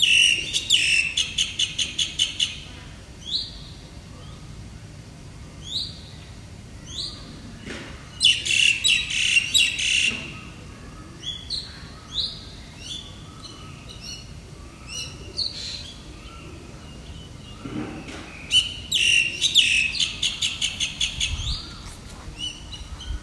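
Birds chirping: short rising chirps, with bursts of quick repeated notes about a second in, around eight seconds in and again around nineteen seconds in.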